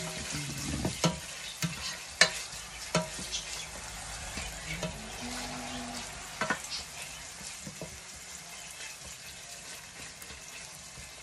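Pork liver, onions and bell pepper sizzling as they fry in a nonstick pot, with a cooking spoon scraping and knocking against the pot as they are stirred. The knocks come often in the first few seconds and then thin out while the sizzle carries on.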